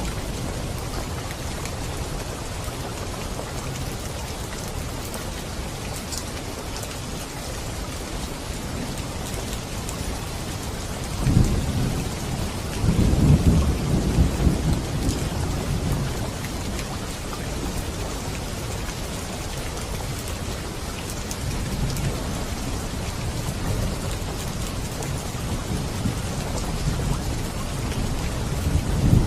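Steady heavy rain hissing, with rolls of thunder rumbling through it. The loudest roll swells about eleven seconds in and lasts around five seconds, and smaller rumbles come later.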